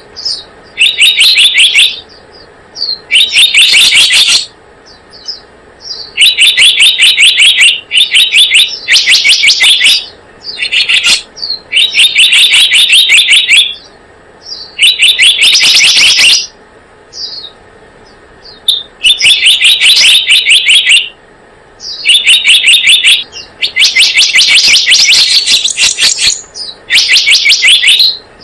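Recorded song of the bird called 'selendang biru' in Indonesian, played as a bird-trapping lure: loud bursts of rapid, high chirping notes, each burst about a second long, repeating every two to three seconds.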